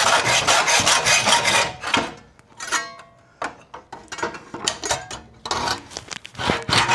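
Hacksaw cutting through a thin steel bracket on a car's radiator support cradle, with rapid back-and-forth strokes. The sawing stops after about two seconds. A short metallic clink rings about three seconds in, then scattered taps follow, and quick strokes start again near the end.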